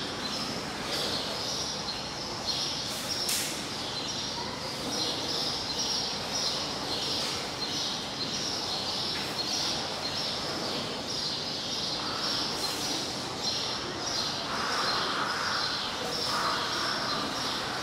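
Small birds chirping in a quick, evenly repeated pattern over steady background noise, with a broader rushing noise swelling in and out over the last few seconds.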